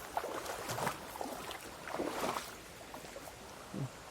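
River water splashing and swishing in two irregular bursts, over the steady rush of the stream.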